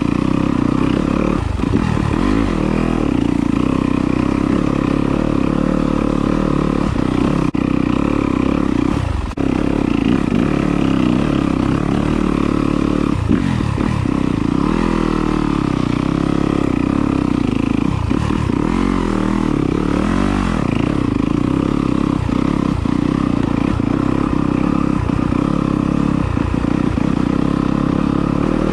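Yamaha enduro dirt bike engine running hard, the revs dropping and rising again every few seconds as the throttle is worked, with some clatter from the rocky trail.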